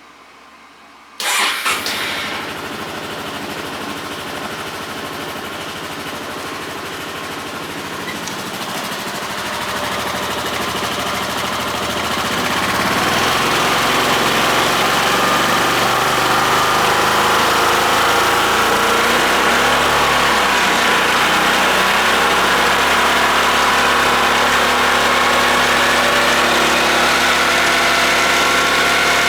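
Honda Forza (MF06) scooter's single-cylinder engine started about a second in and idling, then running faster and louder from about ten seconds in. A faint high-pitched whine, slowly rising in pitch near the end, rides over it: an abnormal noise from the drive section, which the owner puts down to the pulley.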